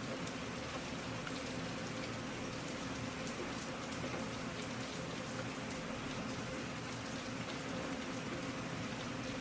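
Steady rain falling, with scattered raindrop ticks and a faint steady hum underneath.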